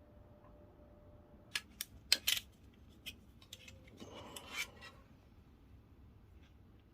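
A few sharp clicks and snaps, then a short rustle, from hands handling objects on a work surface.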